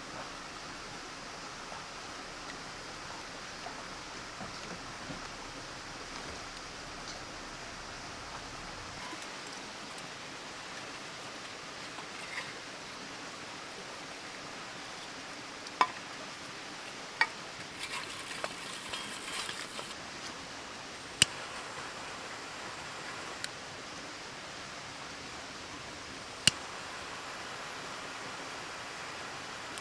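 Wood campfire burning with a steady hiss, with a few sharp pops and cracks from the wood.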